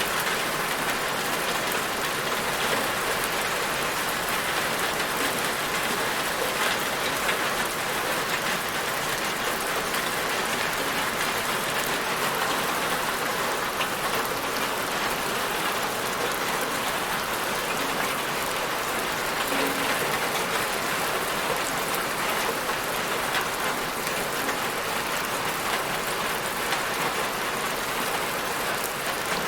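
Steady, dense rainfall: a continuous hiss of rain with fine patter of drops on a surface.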